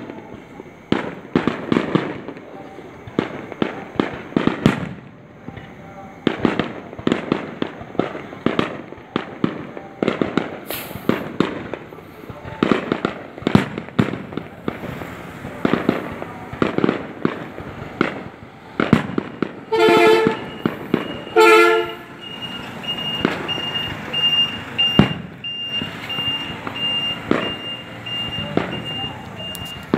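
Fireworks going off in quick, irregular succession, sharp bangs one after another. Two short vehicle horn toots sound about two-thirds of the way through.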